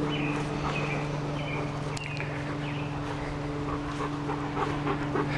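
Dogs playing, with short high chirping yelps about once a second over a steady low hum.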